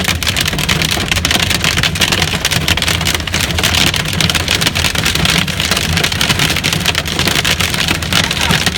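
Hailstones about an inch across and heavy rain hitting a vehicle's roof in a dense, continuous clatter of countless small impacts, loud and unbroken, with the vehicle's low engine and road rumble underneath.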